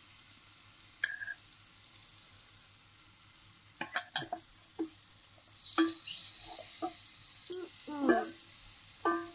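Chicken frying in oil in a cast-iron pan over the coals of an open fire: a steady faint sizzle. A utensil stirring and scraping the pan gives sharp clicks and scrapes, once about a second in, in a cluster around four seconds, and then every second or so towards the end.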